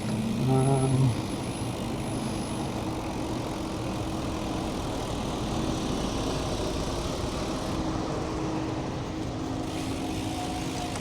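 Steady city road traffic: car engines running and tyre noise, with a faint steady engine hum. In the first second there is a short sound with a clear pitch.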